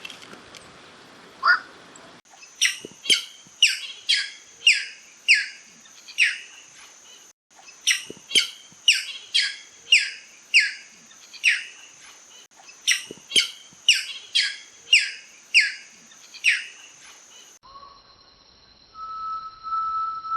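A bird singing runs of loud, falling notes, about three a second, in three bouts of several seconds each, over a steady high tone. Near the end it gives way to a long, steady whistled tone at a lower pitch.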